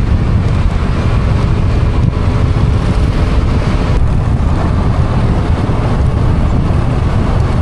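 Steady, loud rumbling wind noise on the microphone of a moving motor scooter, with road and engine noise beneath it, in heavy rain.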